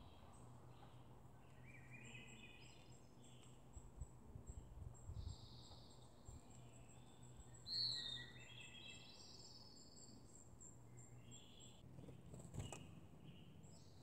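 Faint songbirds singing and calling, several overlapping phrases of whistled notes and short trills, with one louder down-slurred call about eight seconds in and a brief soft knock near the end.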